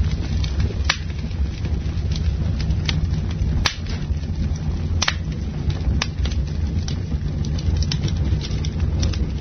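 Campfire crackling: irregular sharp pops and snaps, roughly one a second, over a steady low rumble of burning.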